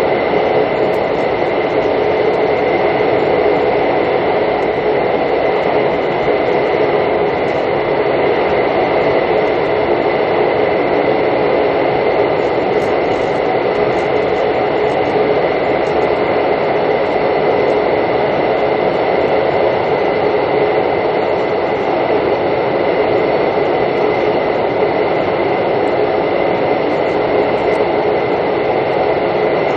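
Passenger train running steadily at speed, heard from inside the carriage: a constant rumble of wheels and rails with a thin steady high whine above it.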